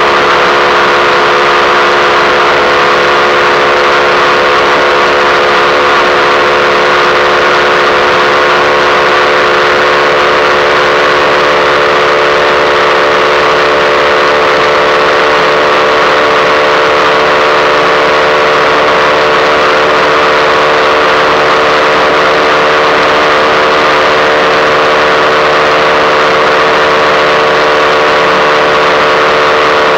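A 2005 Yamaha YBR 125 motorcycle, derestricted, with its single-cylinder four-stroke engine running at steady revs while riding at speed, over a steady rush of wind and road noise. The engine note stays almost level throughout.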